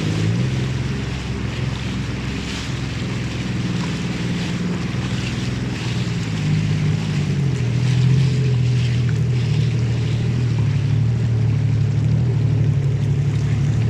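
Motorboat engine running steadily, its note dropping slightly and settling about six to seven seconds in, with wind buffeting the microphone and water rushing past the hull.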